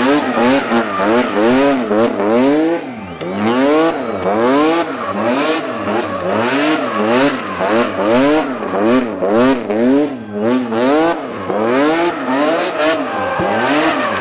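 Rally car engine revved hard up and down over and over, its pitch rising and falling about once every three-quarters of a second, with tyre squeal from the car spinning donuts.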